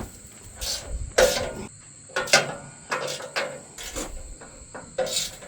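Irregular knocks and clanks of bolts and a wrench on steel as a toolbox is bolted onto a sawmill frame, about eight in all. Crickets chirp steadily in a high thin tone behind them.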